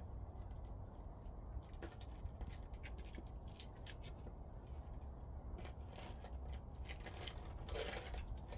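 Irregular light clicks and taps of hands working on the metal cover of a heat pump and its nails, over a steady low rumble.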